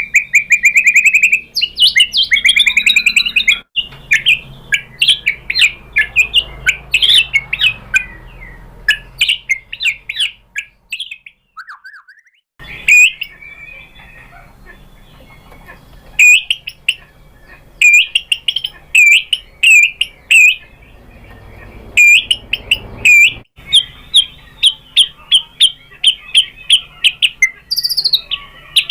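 White-rumped shama singing: a fast, varied run of clear whistled phrases and rapidly repeated notes, with a brief pause a little before halfway.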